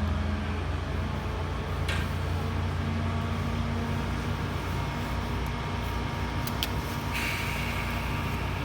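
Steady low running rumble of an Alishan Forest Railway train heard from inside the carriage, with a few short clicks and knocks and a brief hiss near the end.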